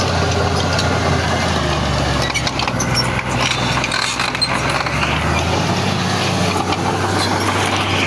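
Heavy diesel earthmoving machinery running steadily, with scattered short metallic clicks and clanks. Its lowest note drops away about five and a half seconds in.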